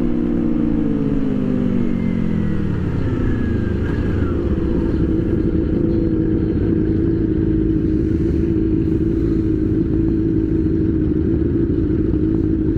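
Sport motorcycle engine heard from the rider's position: its pitch falls over the first few seconds as the bike slows, then holds a steady note, over constant wind and road rumble.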